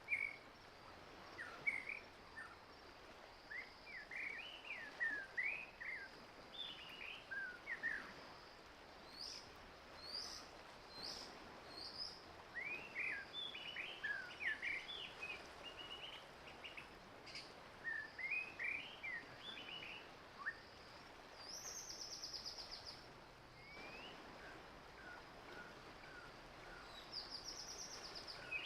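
Several wild birds calling and singing: many short chirps and quick whistled notes, some rising or falling, in clusters through the whole stretch, over a steady faint high-pitched hum.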